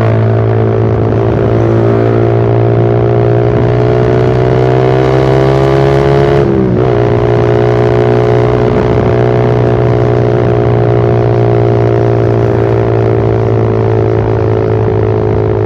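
Suzuki Satria FU Fi motorcycle's exhaust through a short Pro Liner aftermarket muffler with the dB killer removed, running under way at fairly steady revs. The pitch drifts slowly, with a brief dip about six and a half seconds in.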